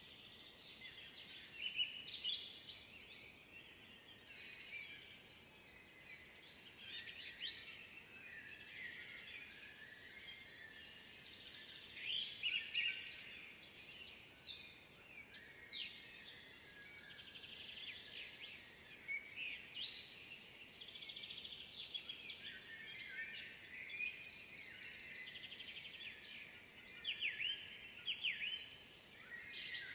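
Spring woodland bird chorus: several songbirds singing and chirping at once, with louder song phrases coming every few seconds over a steady background of twittering.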